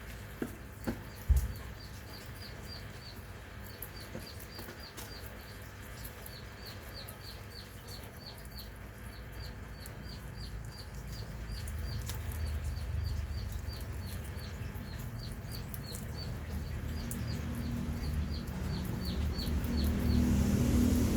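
A bird chirping: a long run of short, high, falling chirps, about three a second with a few brief pauses, stopping near the end. A low rumble grows louder underneath in the second half.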